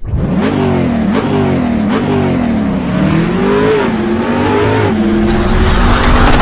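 An engine revving, its pitch rising and falling again and again.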